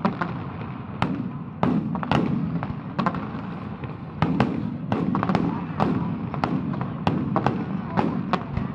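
Fireworks bursting in quick succession: sharp bangs at about two a second, each with a short echoing tail.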